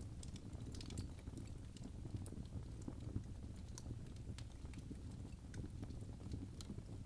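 Wood fire burning in a fireplace: irregular crackles and small pops over a steady low rumble.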